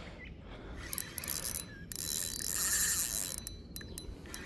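Fishing reel ratcheting in two bursts, a short one about a second in and a longer one of about a second and a half, as a hooked fish is fought.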